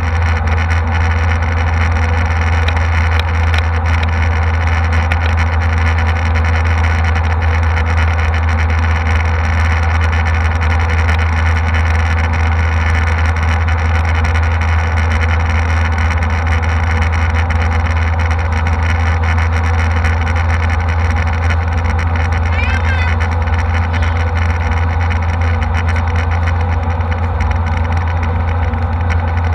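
Jet airliner cabin noise in flight: a steady low drone of the engines and rushing air.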